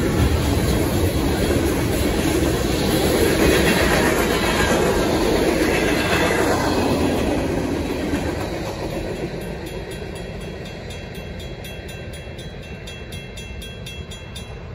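Freight cars rolling past over the crossing, loud at first and then fading about 8 seconds in as the end of the train goes by. Behind it the crossing's mechanical bells ring in a fast, even rhythm, which is left on its own near the end.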